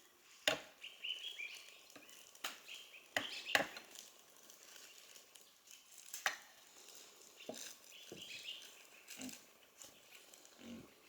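A handful of sharp, irregularly spaced knocks, loudest in the first half, with birds chirping.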